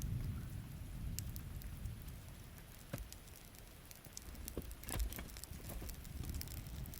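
Campfire crackling in the rain: rain pattering steadily, with sharp pops and snaps from the burning wood, the strongest about three and five seconds in, over a low rumble.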